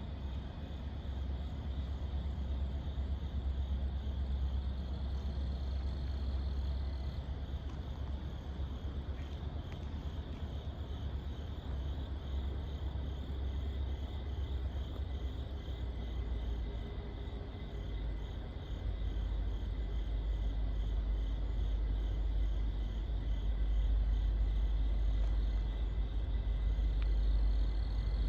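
Slow-moving Norfolk Southern freight train rolling past, a steady low rumble that grows heavier about two-thirds of the way through.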